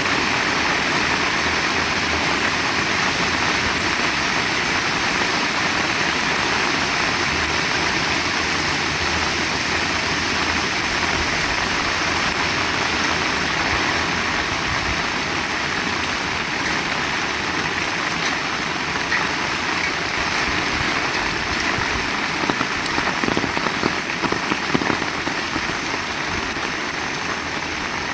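Heavy rain falling steadily, an even hiss, with a few louder uneven spatters about 22 to 25 seconds in.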